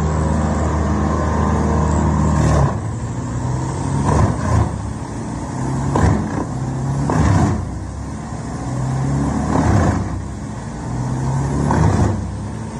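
Large diesel engine of an industrial wood chipper running under load. It is steady at first, then after about two and a half seconds it surges and dips repeatedly as wood is fed in, with short crunching bursts of chipping.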